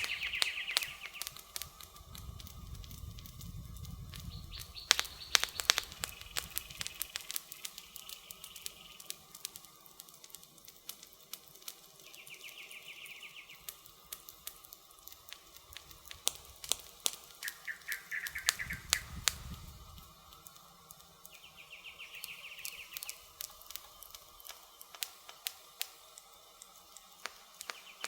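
Campfire crackling, with sharp pops and snaps that come in clusters, and short bird chirps now and then behind it. A low rumble swells twice, early and again about two-thirds of the way through.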